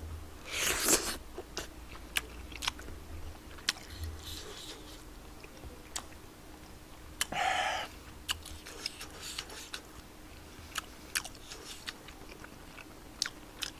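A person chewing mouthfuls of spicy tteokbokki and fish cake close to the microphone, with many small wet mouth clicks. There are two louder, short rushing sounds, one about a second in and another about seven and a half seconds in.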